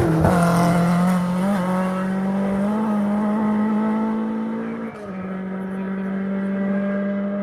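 Ford Escort Mk2 rally car engine held at high revs. Its note steps up slightly about a second and a half in, dips briefly near five seconds, then holds steady again.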